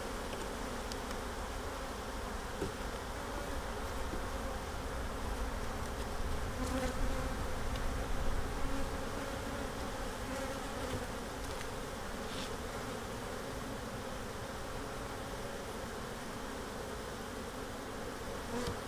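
Honeybees buzzing steadily around an open hive, swelling slightly partway through, with a few faint clicks.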